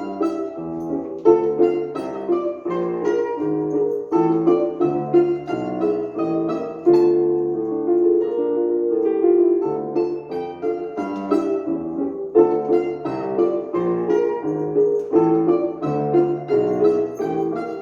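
Live solo piano music, with a moving bass line under a melody of struck notes.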